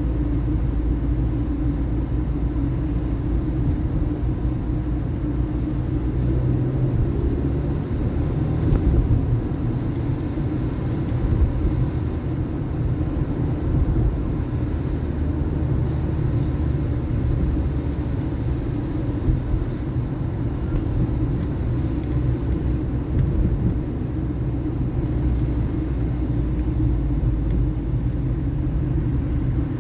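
A car driving through city streets: a steady low rumble of engine and road noise, with a few brief swells.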